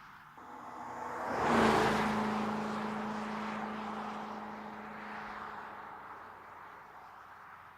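BMW 6 Series Gran Coupe driving past: engine and tyre noise swell to a peak about a second and a half in, the engine note dropping slightly in pitch as the car passes, then fading away slowly.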